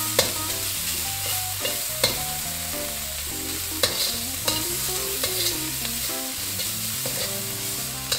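Smoked beef bacon, sliced onion and red chili sizzling in a hot wok, stirred with a metal wok ladle that scrapes and clicks sharply against the pan several times.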